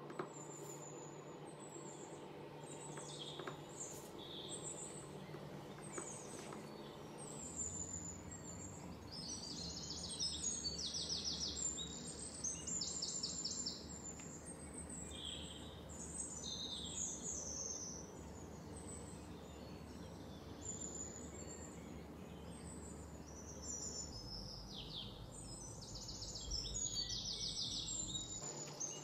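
Small birds chirping and twittering again and again, with bursts of rapid trills, over a low steady hum that comes in about a quarter of the way through and stops near the end.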